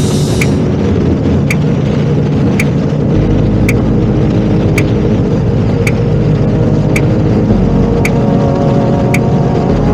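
Honda CRF250 Rally's single-cylinder engine running steadily while riding, with a sharp short tick repeating about once a second.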